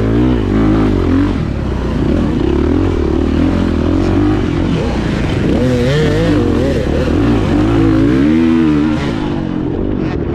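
2024 Beta 430 Race Edition dirt bike's four-stroke single-cylinder engine under load, its revs rising and falling again and again as the throttle is worked.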